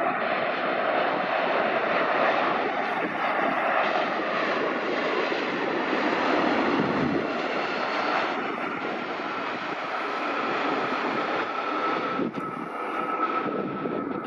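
Jet engines of a Boeing 737-8 MAX airliner: a steady rushing jet noise, with a high whine coming up in the second half.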